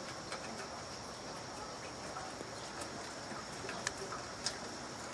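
Light rain falling, a soft steady patter with scattered drops ticking, two sharper drips about four seconds in, over a steady high-pitched hum.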